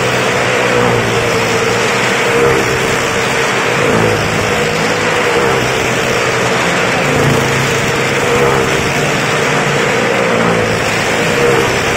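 Car engine running hard as it circles the vertical wooden wall of a well-of-death pit, a loud steady engine note that rises and falls every couple of seconds as it laps past.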